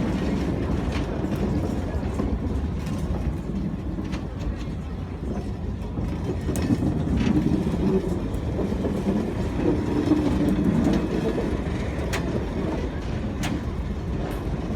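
A departing steam train rolling along the track: a steady low rumble of wheels and cars, with occasional sharp clanks.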